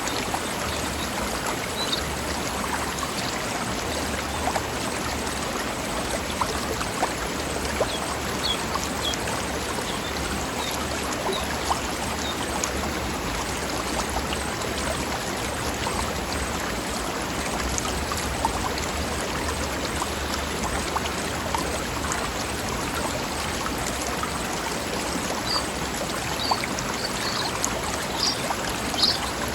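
Mountain stream running over rocks: a steady, babbling rush of water, with a few short high chirps near the end.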